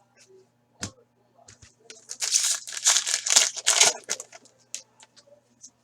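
A trading card pack's wrapper being torn open and crinkled. There is a single tap a little under a second in, then about two seconds of dense crinkling in the middle.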